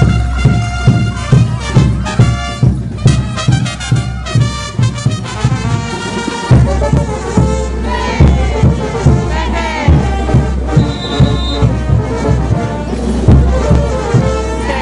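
Bolivian-style brass band (banda de bronce) playing diablada music: trumpets and trombones over a steady drum beat.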